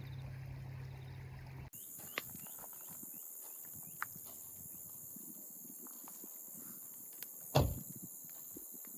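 A steady low hum cuts off abruptly about two seconds in. It is followed by a steady high-pitched insect chorus with scattered small clicks and snaps, and one heavier thump near the end.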